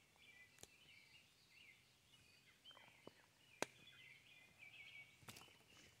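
Near silence, with faint birds singing and chirping throughout and a few soft clicks, the sharpest a little past halfway.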